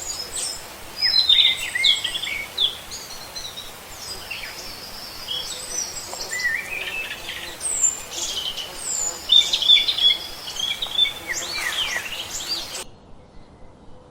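Small birds chirping and calling in quick, overlapping notes over a steady hiss. Near the end the sound cuts to a much quieter background.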